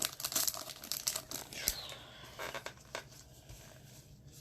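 Crinkling and rustling of a trading-card pack wrapper and cards being handled, dying down about halfway through into a few light taps.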